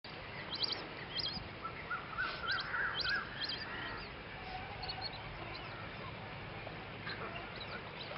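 Wild birds calling in a wetland: groups of short, high chirps come over the first three or four seconds, overlapping a wavering, warbling call around two to three seconds in. Fainter scattered calls follow over a steady background hiss.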